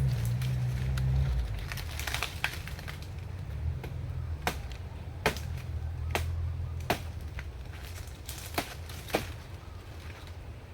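A series of sharp, irregular chopping knocks, about half a dozen, with a patch of lighter crackly ticks before them, over a steady low rumble.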